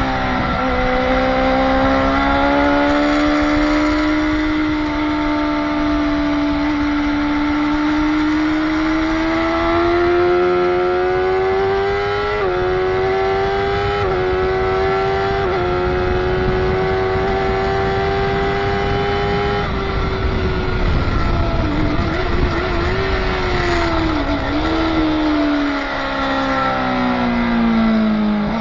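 Motorcycle engine at speed on a race track: the revs climb steadily, then three quick upshifts about halfway through, then the engine holds high revs. After that it drops off with short rev blips from downshifts under braking and falls away near the end.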